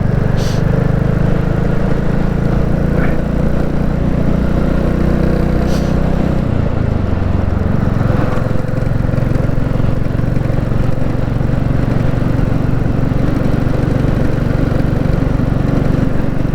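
Royal Enfield Classic 350 single-cylinder engine running steadily under way. Its note drops about six or seven seconds in.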